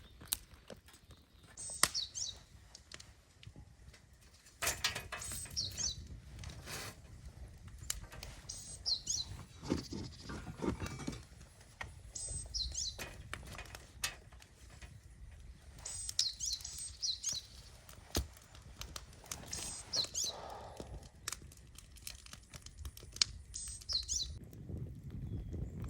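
A wild bird repeating a short, high call about every three to four seconds, with scattered sharp clicks and a low rumble in the background.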